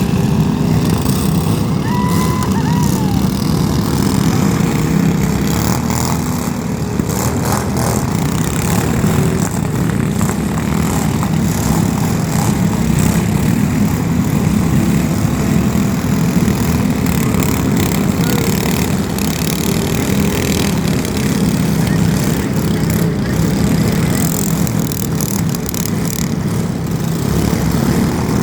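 Loud, steady motor-vehicle engine noise, several small engines running at once, with a rough crackle over a low rumble.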